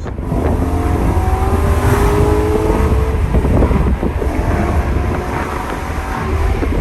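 BMW E90 M3's V8 engine, through a custom exhaust, pulling hard under acceleration and heard from inside the cabin. The engine note climbs for the first few seconds, with a brief dip about four seconds in like a gear change.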